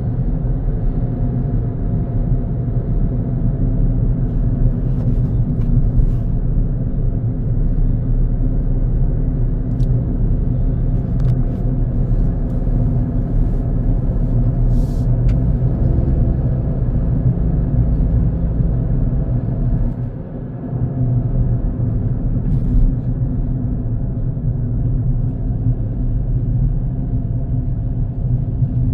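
Car driving on a road: a steady low rumble of tyres and engine, dipping briefly about twenty seconds in.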